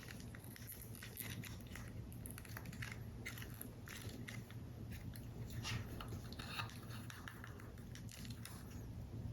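Card-paper model pieces being handled, giving small irregular crackles and clicks, over a steady low hum.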